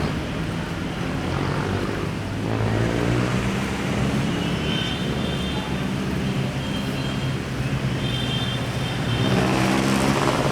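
Road traffic: engines of passing motor vehicles, with their pitch rising and falling as they go by.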